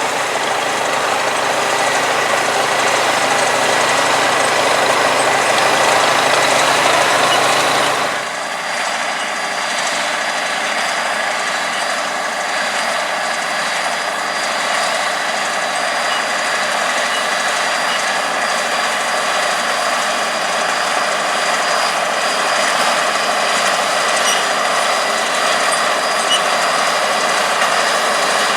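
International 1256 Turbo tractor's turbocharged six-cylinder diesel running steadily under load, powering a 430 small square baler working through straw. About eight seconds in the sound changes abruptly, losing much of its deep low end.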